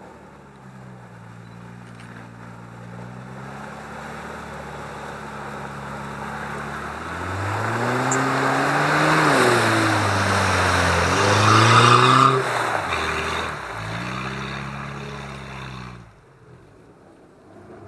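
Off-road 4x4 engine pulling steadily, then revved up and down several times while a loud rushing noise of wheels churning through the bog swells with it. It settles back to a steadier note and then cuts off abruptly.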